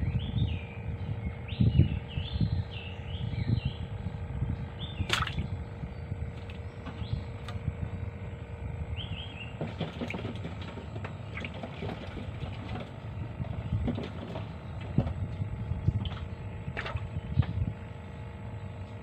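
Small birds chirping in quick short notes during the first few seconds and again around nine seconds in, over a constant low rumble and a steady hum. A sharp click comes about five seconds in, with a few fainter ones later.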